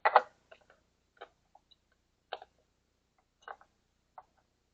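Hand-handling clicks and knocks of an oil filter being fitted to an outboard engine's filter mount: a short clatter at the start, then a few light, separate clicks about a second apart.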